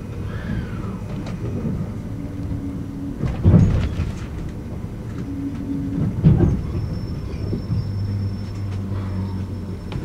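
Running noise of the Super Hakucho limited express heard from inside as it slows into the station and nearly stops: a steady low rumble with short motor hums. The wheels knock heavily twice over rail joints or points, about three and a half and six seconds in.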